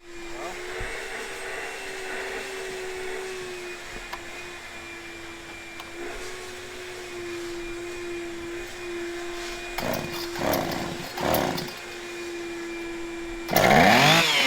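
An old two-stroke chainsaw, revived after sitting out for years, running at a steady idle. It is blipped briefly twice about ten seconds in, then revved hard near the end.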